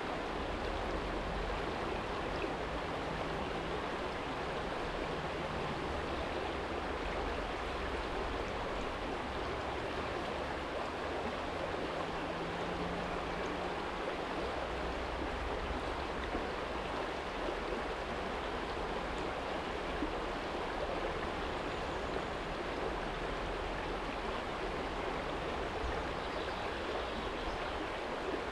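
Shallow stream running steadily over a stony bed, a constant splashing rush of water. A faint low rumble of distant traffic comes and goes underneath.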